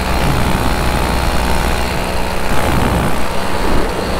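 Minari F1 single-cylinder two-stroke paramotor engine running steadily at cruise power in flight.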